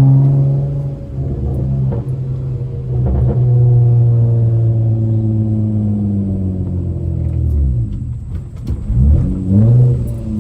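Straight-piped V6 exhaust of a manual Honda Accord droning steadily under way, then the revs fall and climb again a couple of times near the end as the gears are shifted.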